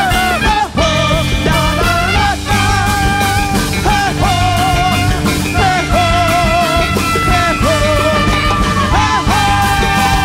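A large jazz big band with a horn section plays live, with bass and drums, carrying a held, wavering melody line.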